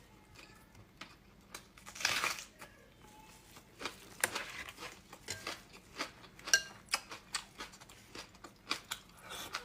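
Close-miked eating sounds: wet mouth clicks of chewing, about two a second in the second half, with a couple of short noisy rustles or slurps about two and four seconds in.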